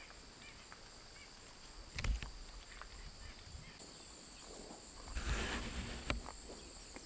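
Insects droning steadily at two high pitches, the upper one growing louder about four seconds in, with faint bird chirps. A few soft thumps and a brief rustle come about five seconds in.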